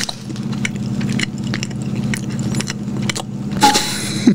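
Close-miked chewing of a soft, powdered-sugar lemon-filled doughnut: wet mouth clicks and smacks over a steady low hum, ending in a short vocal sound.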